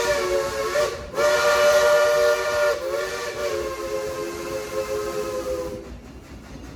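Steam locomotive whistle, the Baldwin #70's, sounding a chord of several notes with a steam hiss. One blast cuts off about a second in; after a brief gap a long blast follows that sags slightly in pitch partway through, grows weaker and stops near the end.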